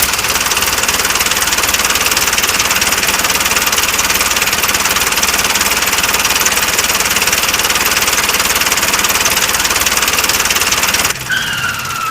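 Small motor of a DIY mini tractor running steadily with a fast, even buzz. About a second before the end it drops away and a short falling whine is heard.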